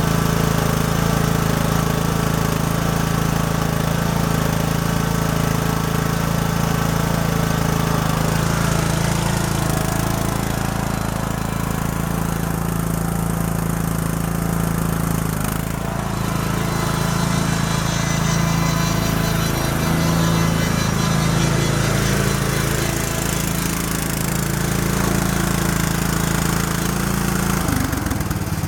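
Craftsman lawn tractor's engine running steadily with a constant low hum, after its transaxle has been topped up with 80W90 gear oil.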